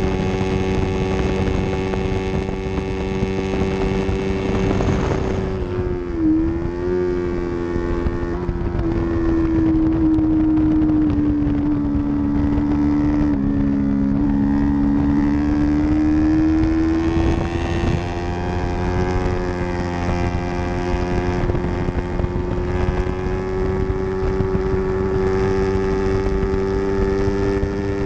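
Yamaha R3 parallel-twin engine running hard at high revs under racing, with wind rushing over the microphone. Its pitch dips about five seconds in with a quick blip just after, stays lower through the middle, then climbs gradually back up.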